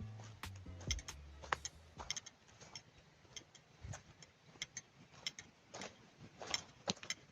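Faint, irregular sharp clicks and ticks, one or two a second, over a quiet background hiss. The low notes of a song fade out in the first two seconds.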